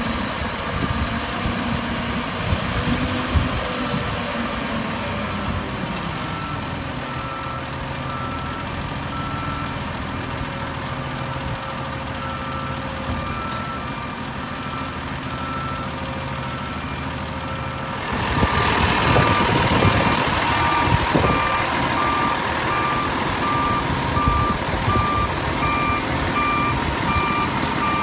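Peterbilt 320 garbage truck's Cummins ISM diesel running with its backup alarm beeping steadily, about once a second. The engine and beeping grow louder about eighteen seconds in.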